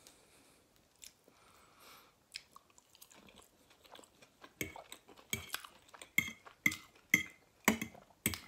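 Close-miked chewing of a mouthful of food, mukbang style. It is quiet at first, then from about halfway in come sharp, wet mouth smacks roughly every half second.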